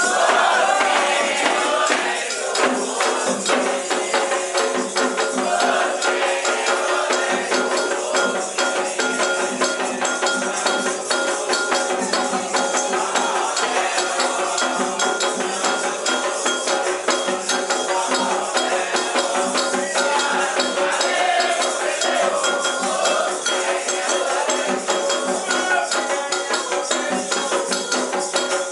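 A Candomblé song for an orixá, sung in Yoruba by a group of voices over dense, fast, steady hand percussion with rattling, shaker-like strikes.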